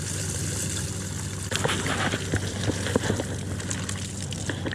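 Outboard engine idling with a steady low hum. From about a second and a half in, irregular clicks and knocks sound over it.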